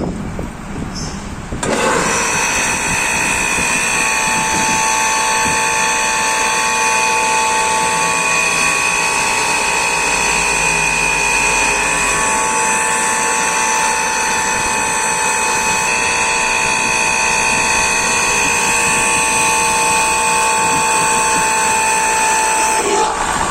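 Restored liquid ring vacuum pump running on its electric motor. It comes on abruptly about two seconds in with a loud, steady whine made of several high tones, and the sound shifts near the end.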